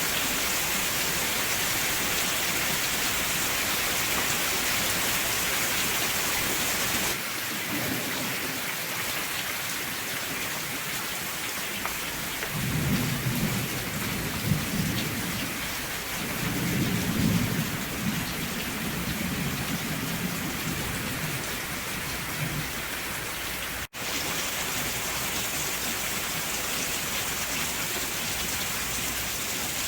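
Steady rain falling, with thunder rumbling low for several seconds in the middle. The sound briefly cuts out for an instant near the end.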